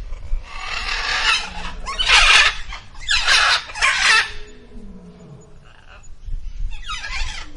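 Bird calling: four harsh calls in the first four seconds, a pause, then one more near the end.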